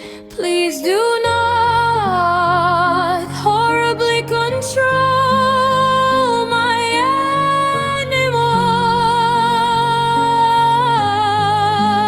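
Music: a solo voice singing long, held notes with wide vibrato and no clear words, over a slow accompaniment of sustained low notes that comes in about a second in.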